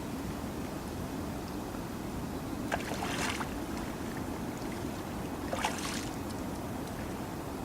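Water splashing around a small boat on a pond, twice briefly, about three and five and a half seconds in, over a steady wash of wind and water noise.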